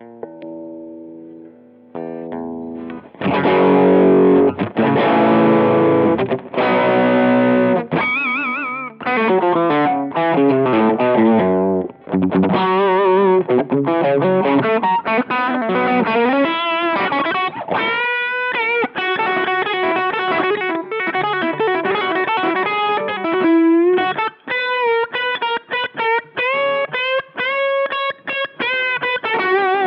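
Electric guitar played through a Bluesbreaker-style overdrive pedal with a mildly driven, mid-pushed tone. Chords are strummed in the first part, followed by a single-note lead line with vibrato.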